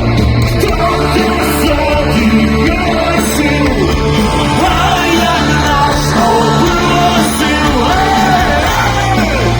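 A live punk-rock band plays with a singer over guitars, bass and drums, recorded in a concert hall; the vocal is sung close to shouting.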